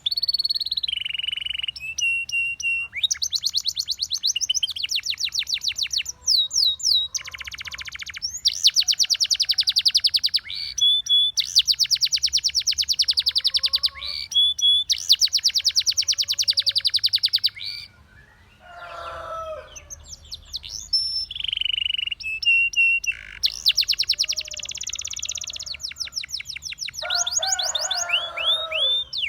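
A Russian singing canary's song: long fast trills of rapidly repeated high notes in phrases of a second or two, broken by short whistled glides and brief pauses. A lower, rougher series of notes comes in twice, about two-thirds of the way through and near the end.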